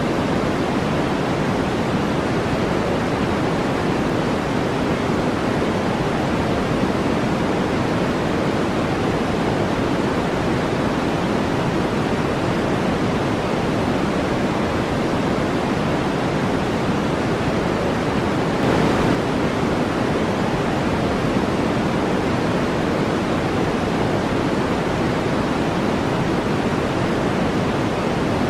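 Steady generated brown noise, an even deep hiss weighted toward the low end. A brief faint swish comes about two-thirds of the way through.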